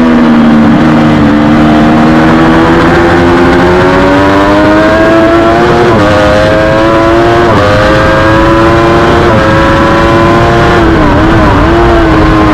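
Triumph Daytona 675R inline-three engine under race riding: the pitch falls at first as the bike slows, then climbs steadily under hard acceleration, with three quick upshifts in the second half each dropping the pitch before it climbs again. Near the end the pitch dips and wavers briefly.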